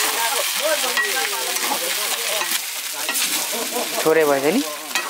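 Chopped chicken with onions frying in a wok, sizzling steadily as it is stirred and scraped around with a wooden stick. A brief pitched vocal sound stands out about four seconds in.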